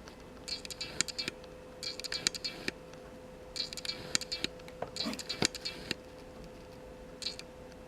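Light scratching and clicking in about five short clusters, with a faint steady hum underneath.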